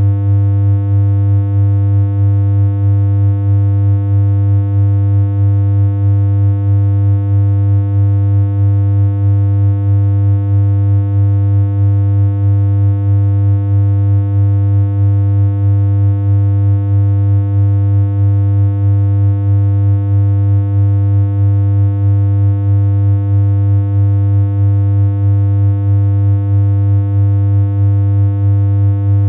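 A synthesized electronic hum: one low buzzy tone held at a constant pitch, with a faint regular throb a little more than once a second.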